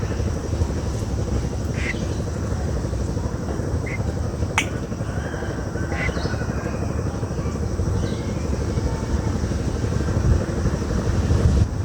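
Strong wind buffeting the microphone as a steady low rumble, with a few short high chirps from birds scattered through the first half.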